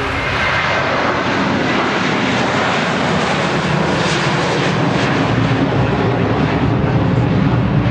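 Jet noise from a Boeing 757-200's Rolls-Royce RB211 turbofan engines: a loud, steady rush that grows slightly louder and deeper in its low rumble over the second half.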